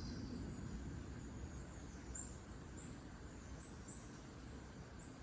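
Outdoor nature ambience: a steady low background hiss with several short, high bird chirps from about two seconds in.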